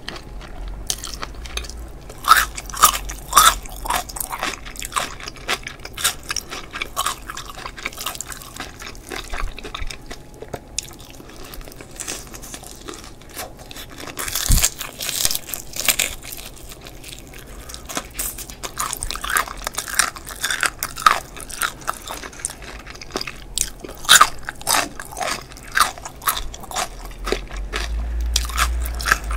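Crispy battered fried chicken drumstick being bitten and chewed close to the microphone. Clusters of crackling crunches from the crust come every few seconds, with quieter chewing between.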